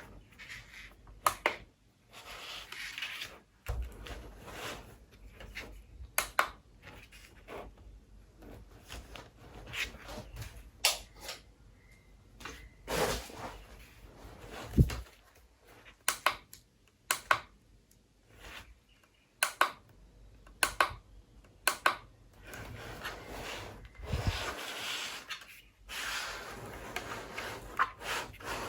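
Handling noises from a small plastic USB fan and its packaging being unboxed: irregular clicks, taps and knocks with stretches of rustling.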